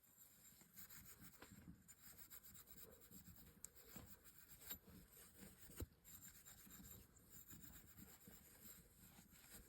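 Faint, irregular scratching of steel wool scrubbing a furnace flame sensor to clean off carbon buildup, with a few light clicks.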